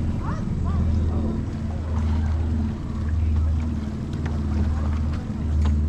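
Small boat's motor running steadily, a low hum whose loudness swells and dips every second or so.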